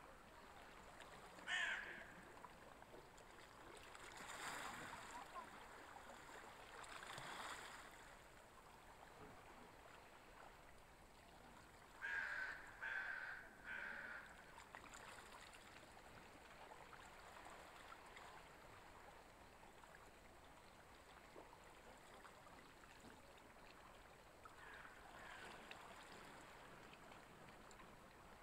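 Faint background hiss with two soft swells of noise, and a bird calling: one short call near the start, then three short calls in quick succession about twelve seconds in.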